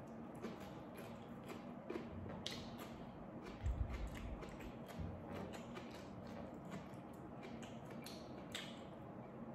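Close-up chewing and mouth sounds of someone eating: scattered soft wet clicks and smacks, with a low thump about four seconds in.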